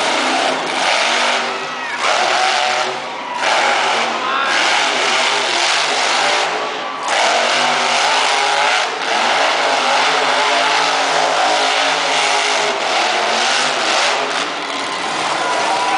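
Monster truck engine running hard and loud, revving with several short let-offs where the sound briefly drops.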